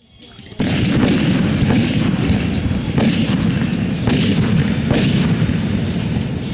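Aerial fireworks bursting in a dense barrage: a continuous booming rumble with sharper cracks about once a second, starting suddenly about half a second in.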